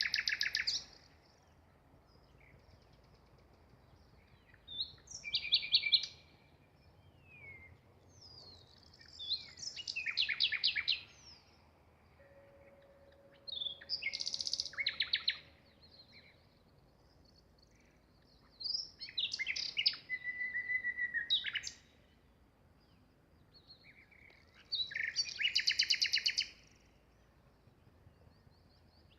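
Nightingale singing: short phrases of rapid repeated notes and trills, about one every four to five seconds, with pauses between them, over a faint low background rumble.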